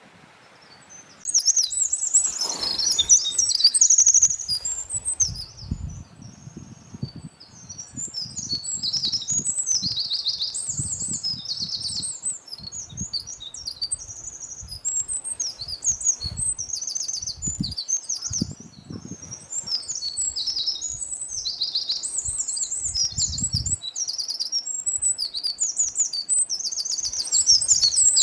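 Eurasian wren singing: long, rapid runs of high trills and warbled notes, starting about a second in, with short pauses between phrases.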